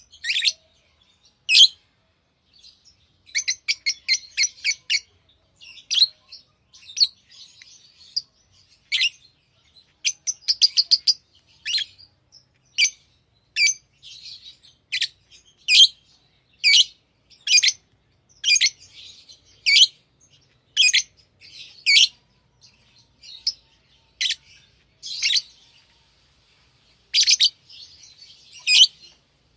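Pet lovebirds chirping: sharp, high single calls about once a second. There are quick runs of rapid chirps a few seconds in and again about ten seconds in, with softer twittering between the calls.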